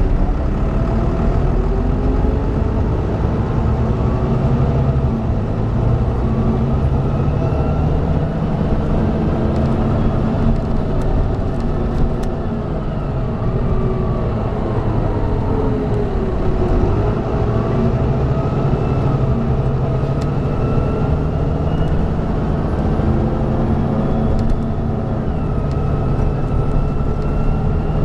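Volvo B9B six-cylinder diesel of a Volvo B9TL bus under way with its ZF Ecomat six-speed automatic gearbox. The revs climb, fall back for a few seconds about halfway through, then climb again, with a gear change near the end.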